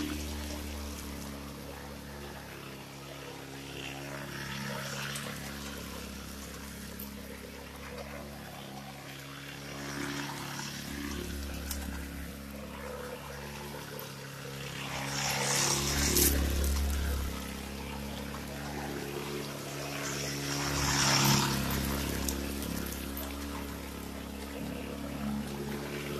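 Small engine of a 50cc Coolster dirt bike running steadily, revving up loudly twice past the middle, with wet splashing as the wheels churn through mud and water.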